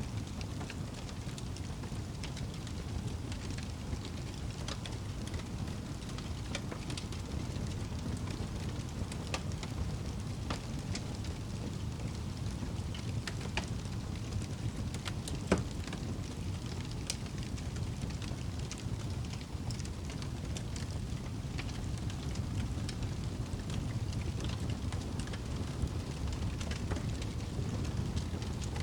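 Campfire crackling, with scattered sharp pops and one louder pop about halfway through, over a steady low rumble.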